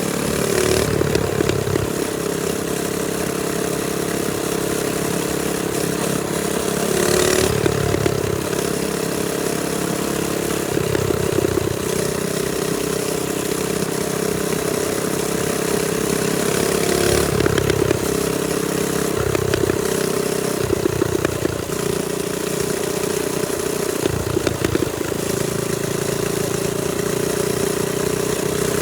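Trailmaster Storm 200 minibike's small single-cylinder engine running steadily while riding, its pitch dipping and climbing again a few times as the throttle is eased and reopened.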